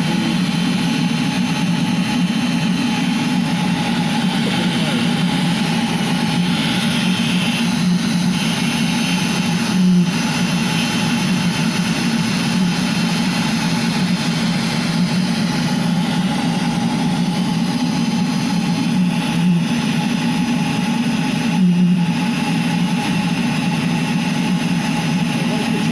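Eberspächer Hydronic D5WZ diesel coolant heater test-running steadily: an even roar of its combustion-air fan and burner over a low hum, with three brief bumps along the way.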